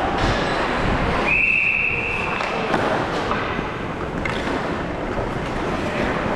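One long, steady referee's whistle blast starting about a second in and lasting over a second, over the thuds and knocks of play in a large hall.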